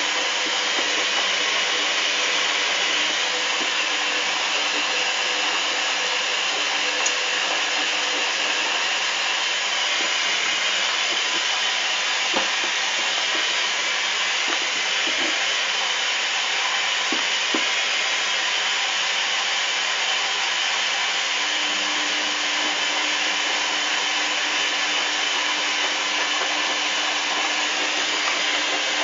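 Hoover washing machine running with a steady whirring motor noise, a few faint clicks in the middle, and a low steady hum that joins about two thirds of the way through.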